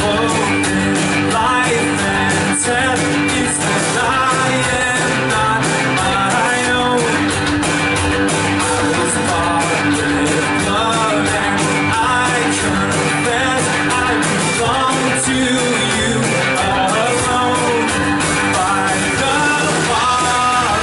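Live church worship band playing a song, with guitar, a steady beat and a singing voice.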